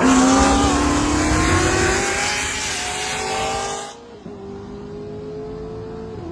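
Car engine accelerating hard, its pitch climbing steadily for about four seconds. It then drops abruptly to a quieter, steady engine drone.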